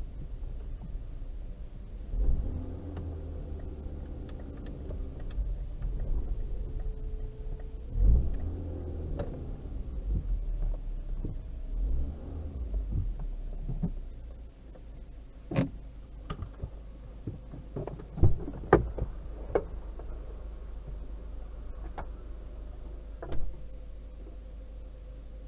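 Car engine running at low revs, heard inside the car, rising and falling for about the first half as the car manoeuvres, then settling quieter. After that come a handful of sharp knocks and clicks.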